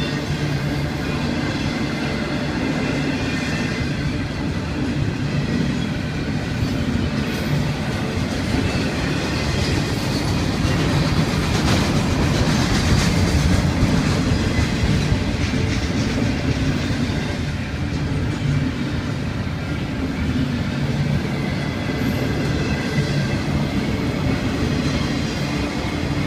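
Florida East Coast Railway intermodal freight train rolling past, its cars' wheels running over the rails in a continuous loud rumble, slightly louder about halfway through.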